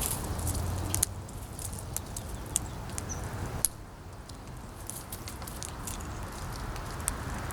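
Wind blowing over the microphone, with scattered sharp clicks and taps of squirrels and birds feeding on seed, and a brief high bird chirp about three seconds in.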